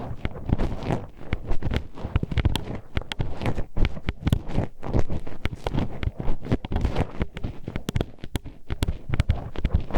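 Hairpins poked and scraped inside an ear microphone's ear canal: a dense, irregular stream of sharp clicking and tapping over a close, rumbling scrape.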